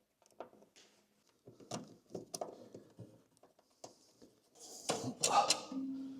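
Scattered small clicks and knocks of hand-handling, with a louder rustling clatter about five seconds in.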